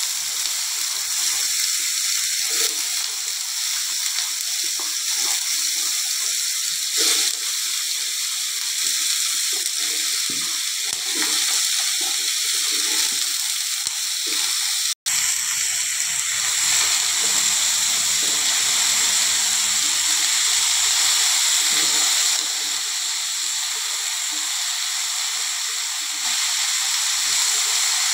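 Freshly rinsed potato sticks sizzling in hot mustard oil in a non-stick frying pan, a steady hiss as their moisture hits the oil. The sound cuts out for an instant about halfway through.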